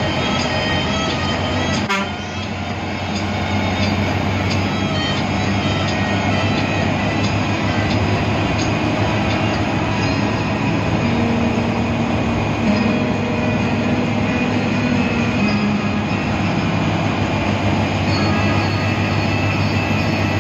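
Cabin noise inside an air-conditioned express bus: the engine runs with a steady low hum and pitch that shifts now and then, over a constant rush and many small rattles from the body. There is one sharp knock about two seconds in.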